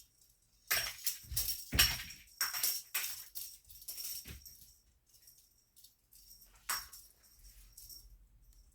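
Cat teaser wand toy jingling and rattling as it is shaken, in a quick flurry of strokes for a few seconds, then a few sparser, softer shakes with one louder one near the end.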